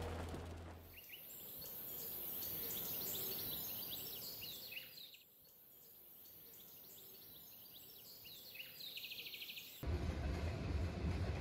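Birds chirping and trilling over a steady high hiss in open countryside. A louder sound fades out in the first second, and near the end a freight train of tank wagons starts rumbling past with a low, heavy rumble.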